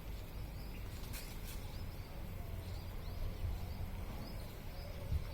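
Small birds chirping repeatedly in short, high notes over a steady low rumble.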